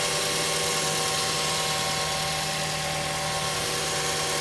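2008 Mazda 3's DOHC 16-valve four-cylinder engine idling steadily, heard close in the open engine bay; it is running normally, as it should.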